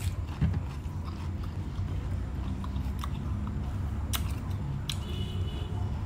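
Close-miked chewing of a mouthful of raw water chives, with a few sharp clicks from the mouth or the stems.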